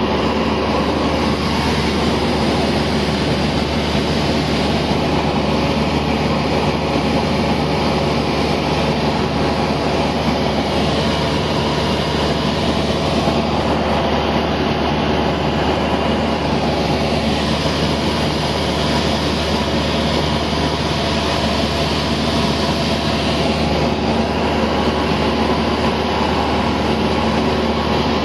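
Cessna 172 in cruise, heard from inside the cabin: the piston engine and propeller drone loudly and steadily, with a constant pitch and airflow noise.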